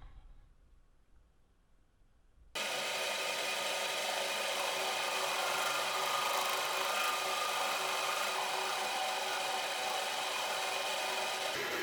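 Electric power tool running steadily under load, as in grinding or sanding a part. It starts abruptly about two and a half seconds in, after a quiet start.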